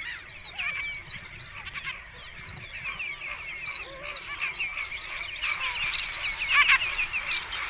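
Many birds calling at once: a dense, continuous chatter of short overlapping chirps and twitters, busiest and loudest near the end.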